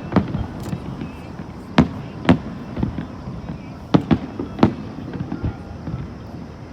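Aerial fireworks bursting during a display: sharp bangs at irregular intervals, five or so loud ones with fainter pops between.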